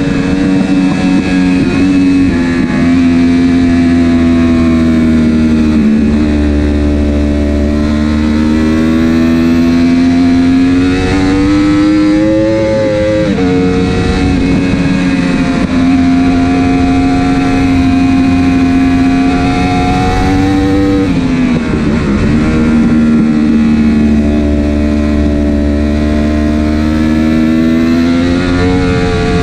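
Racing superbike engine heard onboard at speed, its pitch climbing under acceleration and dropping sharply at gear changes and braking a few times, with wind and road noise underneath.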